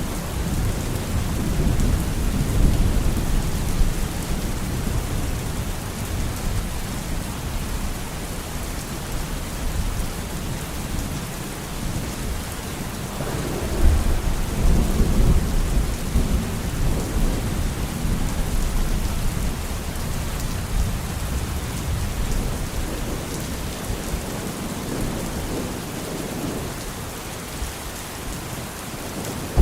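Steady rain falling, with rolling thunder rumbling low underneath; the rumble swells about halfway through and eases off before building again near the end.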